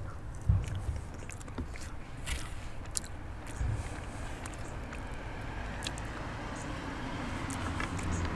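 Close-miked chewing of a mouthful of chicken pot pie, with scattered light clicks of a wooden fork against the plate, over a steady low rumble.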